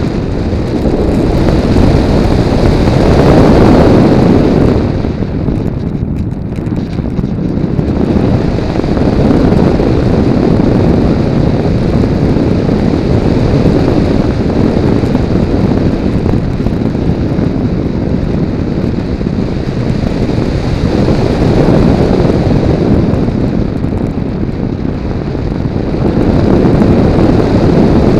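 Airflow rushing over the microphone of a camera mounted on a Multiplex Blizzard RC model plane in flight, a dull wind roar that swells and eases several times, loudest about three to four seconds in and again near the end.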